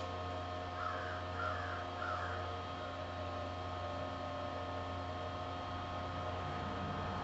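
A crow cawing three times in quick succession about a second in, over a steady machine hum with several fixed tones.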